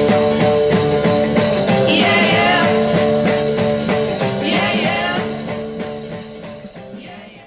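Closing bars of a 1960s rock band recording, with guitars and a drum beat, fading out over the last couple of seconds.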